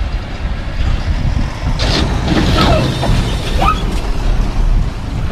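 Vehicle engine rumble, likely a truck sound effect, running steadily, with a few short falling and rising whines near the middle.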